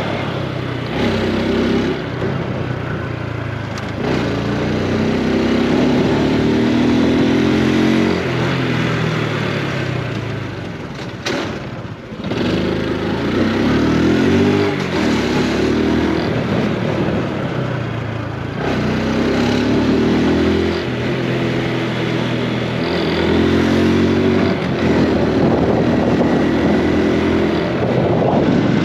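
Honda Super Cub C125's single-cylinder four-stroke engine and exhaust while riding, its pitch rising again and again as it accelerates through the gears. It drops back briefly about twelve seconds in as the throttle closes.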